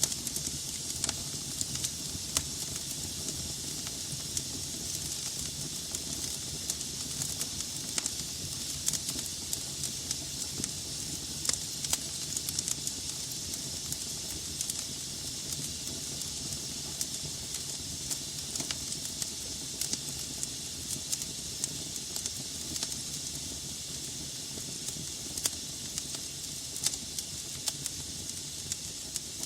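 Wood logs burning in a fireplace: a steady hiss with a low rumble of flame, and frequent sharp crackles and pops scattered throughout.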